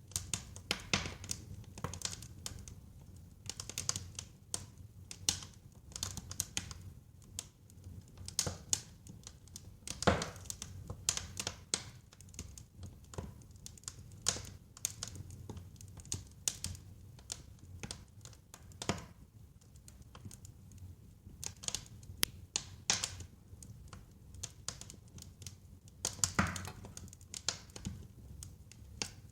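Wood fire crackling, with irregular sharp pops and snaps over a low steady rumble. One pop about a third of the way in is the loudest, and another strong one comes near the end.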